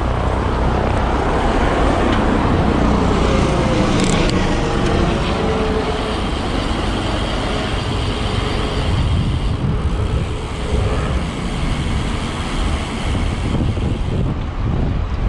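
Road traffic noise as cars pass, mixed with wind rumbling on the microphone of a moving bicycle; louder in the first half.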